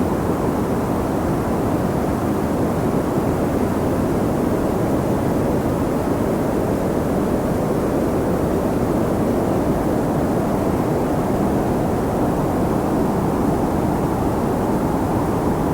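Steady, deep rush of wind with no gusts or changes, its sound lying mostly in the low range.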